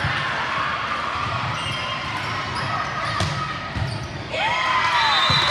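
Volleyball bouncing several times on a gym floor over the steady hubbub of a crowd in a large hall, with a few short squeaks near the end.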